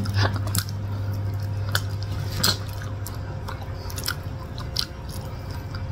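Mouth sounds of two people eating soft durian flesh: wet chewing and lip smacks, with scattered short clicks, the loudest near the start and about two and a half seconds in. A steady low hum lies underneath and fades after about three seconds.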